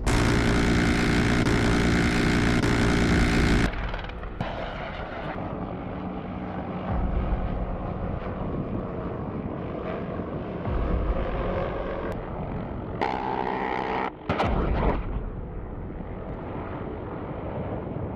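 Military helicopter turbine and rotor noise, steady and loud, in several cut-together clips that change abruptly about four seconds in and again near the end.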